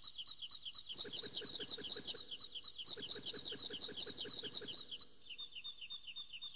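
Bird chirping: short, quickly falling high chirps repeated evenly at about five a second. A fuller layer of chirping with lower tones joins twice, about a second in and again from about three to nearly five seconds.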